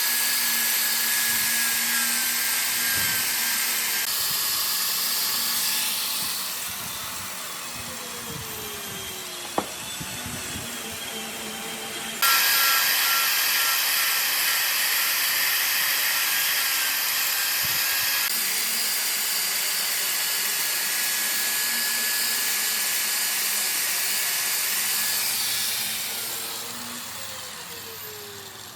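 A power tool working wood, giving a steady high hiss with a thin whine. It drops in level about six seconds in, comes back up suddenly around twelve seconds, and fades near the end.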